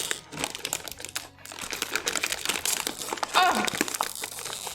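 Plastic snack packet crinkling as it is handled, a dense run of crackles, with a brief voice sound about three and a half seconds in.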